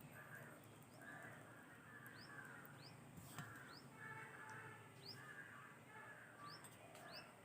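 Near silence, with faint bird calls repeating in the background and a few short high chirps.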